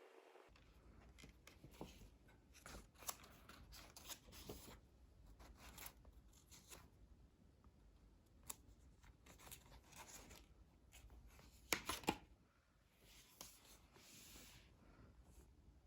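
Faint handling noises: scattered soft rustles and light clicks, with a pair of sharper clicks about twelve seconds in.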